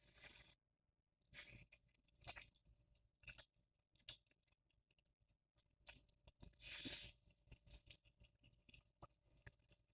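Faint close-up mouth sounds of eating Buldak spicy ramen noodles: soft chewing with scattered wet clicks, and one longer, louder noisy stretch about seven seconds in.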